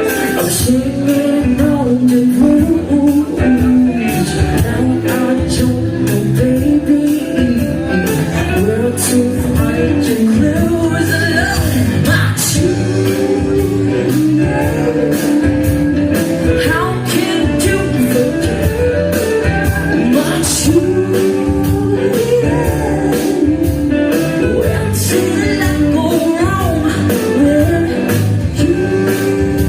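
A rock band playing live, with a lead singer over guitar and drums.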